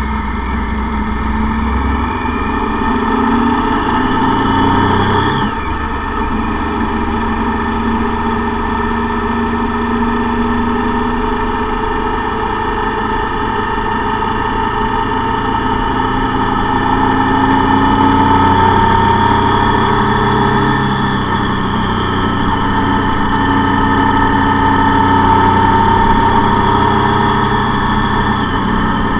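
Motorcycle engine running on the move, its pitch slowly rising and falling with the throttle, with a brief dip about five seconds in.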